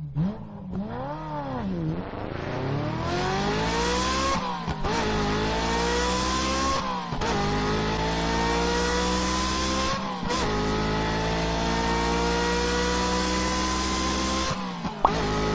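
Mercedes GLE 350d diesel SUV pulling away and accelerating through its automatic gears: the engine note rises and falls at first, then climbs steadily, dropping back at each of about four upshifts. A sharp click near the end.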